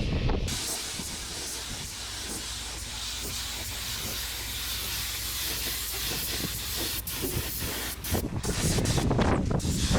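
A steady spraying hiss, with a few sharp knocks and a louder, rougher stretch near the end.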